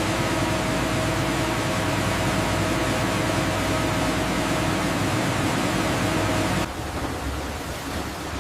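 Sawmill machinery running: a loud, steady mechanical din with a constant hum, which drops to a quieter, rougher noise near the end.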